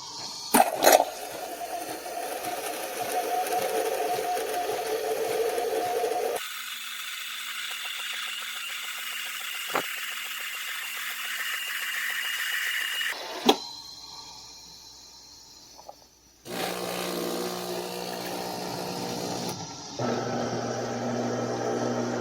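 De'Longhi Magnifica Start automatic espresso machine running a brew cycle: a few clicks, then a steady motor whir for about six seconds. A different steady mechanical sound follows until a sharp click, and after a lull the pump buzzes steadily through the last part.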